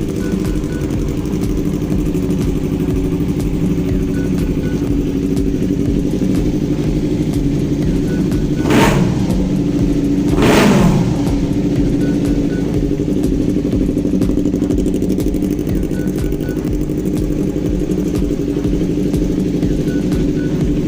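Yamaha YZF-R3's 321 cc parallel-twin engine idling steadily through its exhaust, blipped twice about nine and ten and a half seconds in, each rev rising briefly and dropping straight back to idle.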